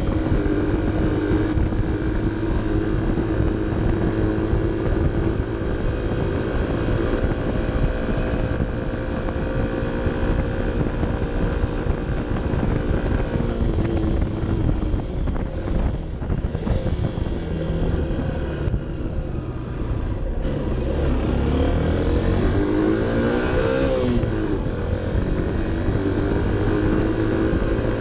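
Honda CB 125 F's single-cylinder 125 cc engine running under load on a climb, heard onboard. Its pitch holds steady for the first half, then falls and rises as the revs change in the later part, with wind and road noise underneath.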